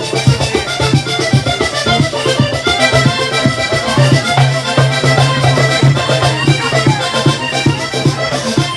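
Vallenato ensemble playing an instrumental passage: a diatonic button accordion carrying the melody over a fast, steady rhythm from the caja drum and the scraped guacharaca.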